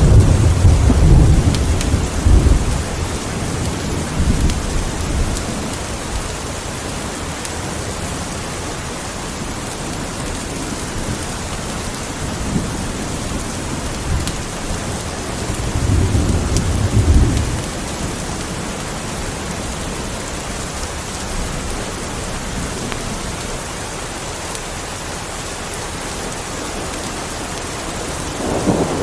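Steady rain with low rolls of thunder: one fading out about three seconds in, another swelling and dying away around sixteen seconds in, and a third starting right at the end.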